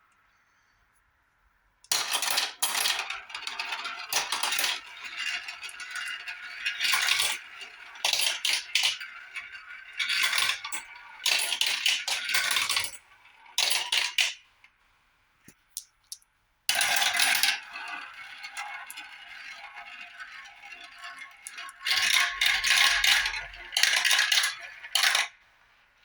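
Marbles rolling and clattering down a marble run: a rapid patter of clicks and rattles that comes in repeated louder spells. It starts about two seconds in, breaks off briefly past the middle and fades out near the end.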